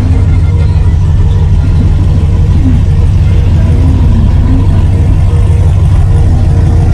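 A vehicle engine idling steadily close by, with faint voices in the background.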